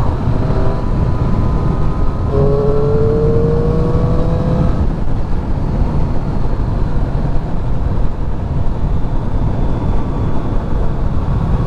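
Triumph 675 three-cylinder motorcycle engine pulling in gear under a heavy rush of wind and road noise, its pitch rising gently as the bike accelerates, once at the start and again from about two to five seconds in. The engine is kept to moderate revs because the bike is still being run in.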